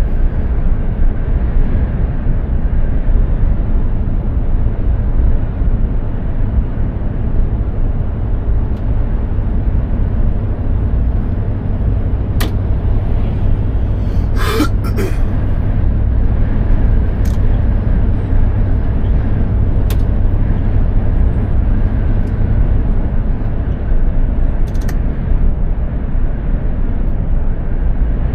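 Mercedes-Benz Actros 2763 truck driving along, its engine and road noise a steady deep drone. A short hiss comes about halfway through, and a few light clicks are scattered across.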